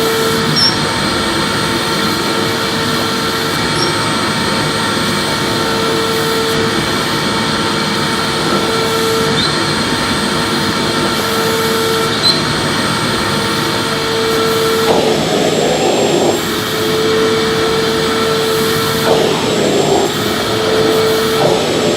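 Electric vacuum cleaner running and vacuuming, a loud, even rush of air with a steady whine over it. About fifteen seconds in, the whine drops out and the sound turns rougher and more uneven.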